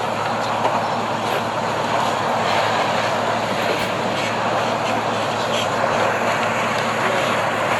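Loud, steady drone of a heavy engine close by, building up just before and then holding level.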